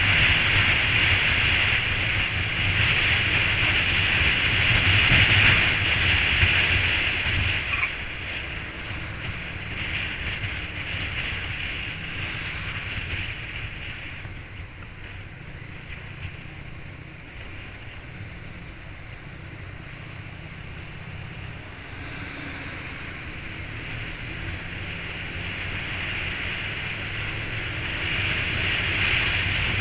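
Vehicle and road noise on wet pavement, a steady hiss with a low rumble. It eases off about a third of the way in and builds up again toward the end.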